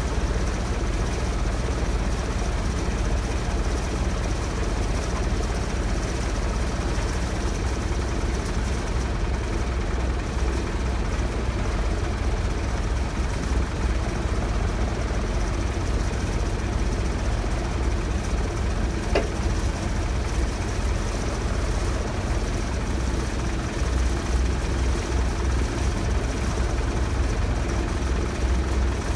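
Heavy engine idling steadily with a low, even rumble.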